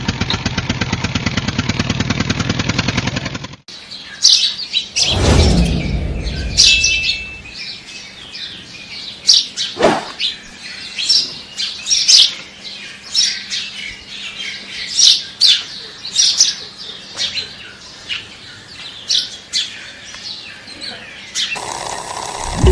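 A small engine runs with a rapid, even pulse for the first few seconds and then cuts off abruptly. Birds then chirp repeatedly in short high calls, with a brief low rumble about five seconds in. Music comes in near the end.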